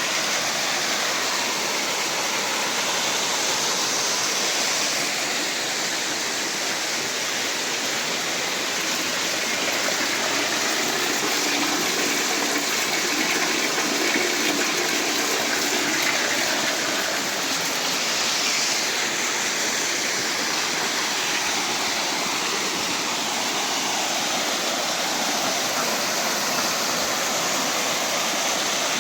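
Steady rush of flowing water, like a stream or small waterfall, holding even throughout.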